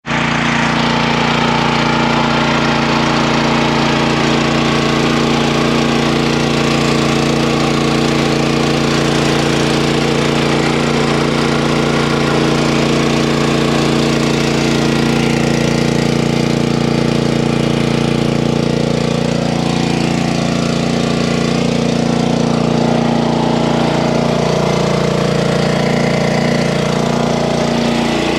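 Honda GX340 single-cylinder four-stroke engine running steadily and smoothly, "just like a kitten", with a small change in its note near the end.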